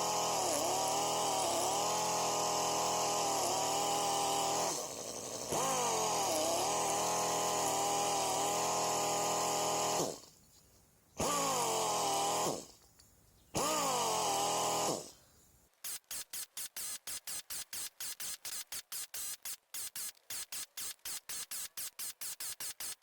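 Pneumatic drill run at low air feed, reaming burrs out of a meat mincer plate's holes: a pitched air-motor whine that sags in pitch and recovers again and again as the bit bites, stopping and restarting three times. From about two-thirds of the way in it gives way to a fast, even pulsing.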